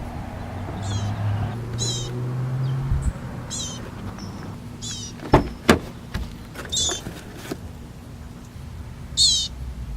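Baby bird chirping: short, high-pitched chirps repeated every second or two. Two sharp clicks come a little past the middle.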